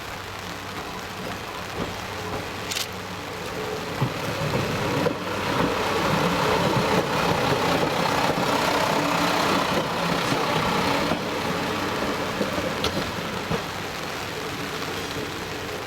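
Diesel railcar (JR Shikoku KiHa 32) running with its engine hum over a steady noisy hiss, getting louder over several seconds in the middle and then easing off, as when it passes by.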